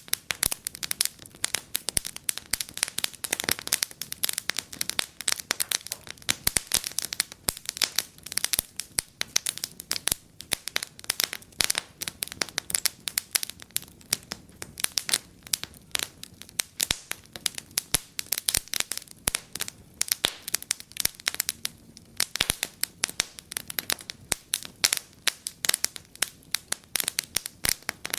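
Wood fire burning in a fireplace, crackling and popping with many sharp irregular snaps, several a second, over a faint hiss.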